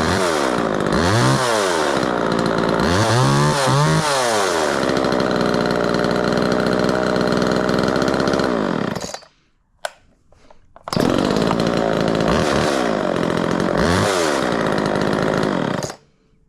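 Homelite XL two-stroke chainsaw running, its throttle revved up and back down a few times, then shut off about nine seconds in. After a pause of about two seconds it fires up again on one pull, is revved once more and shut off near the end.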